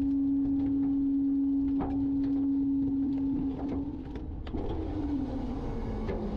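Garbage truck running its packer: a steady mechanical whine over a low rumble, with scattered knocks and clanks. About halfway through the whine drops in pitch and gets a little quieter, then wavers lower.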